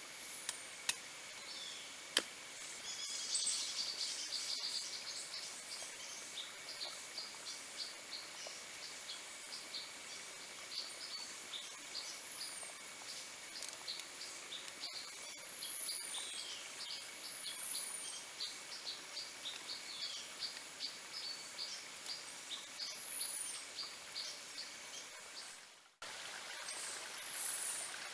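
Tropical forest ambience: a bird repeats a high, falling whistled call every two to three seconds over many quick chirps and a steady insect drone. A few sharp clicks sound in the first two seconds.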